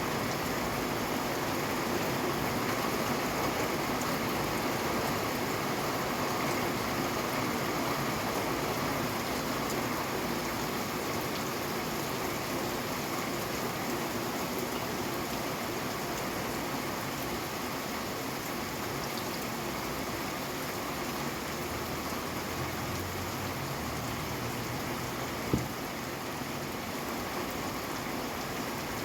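Steady rain falling, an even hiss of drops with one sharp tap about 25 seconds in.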